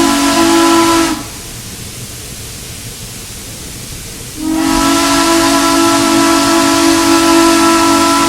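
Steam locomotive's chime whistle blowing loudly in several notes at once: one blast cuts off about a second in, and after a pause filled only by a hiss, a second long blast starts about four and a half seconds in and holds steady.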